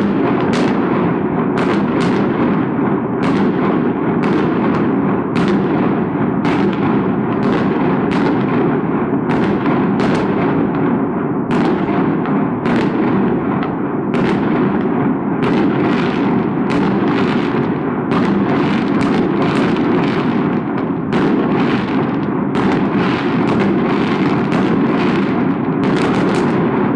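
Aerial firework shells bursting in quick succession, about one to two bangs a second over a continuous low rumble.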